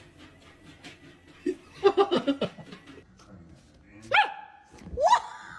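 A dog barking: a quick cluster of short barks about two seconds in, then two rising yelps near the end.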